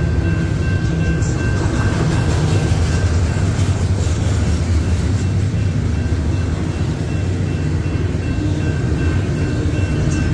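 Double-stack intermodal freight train rolling through a grade crossing: a steady rumble of wagon wheels on the rails, with a few light metallic clicks. Two steady high tones run over it, fitting the crossing's warning bell.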